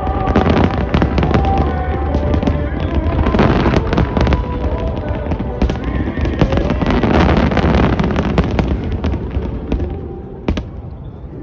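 Aerial fireworks display: shells bursting and crackling in quick succession over a low rumble, with music playing along. The barrage thins out about ten seconds in, and one last sharp bang follows.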